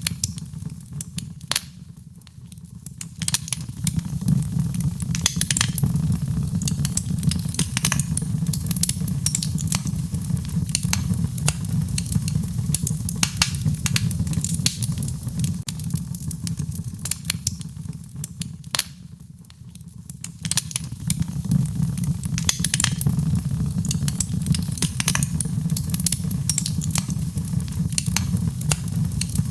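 Wood fire in a fireplace crackling and popping in quick irregular snaps over a steady low rumble. The sound dips briefly twice, about two seconds in and again near the middle, then comes back up.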